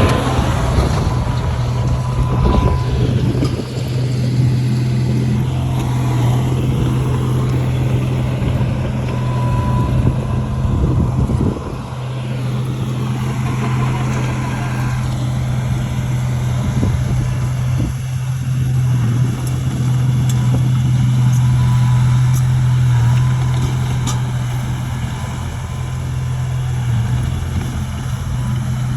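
Shantui bulldozer's diesel engine running with a steady low drone, dipping slightly about twelve seconds in.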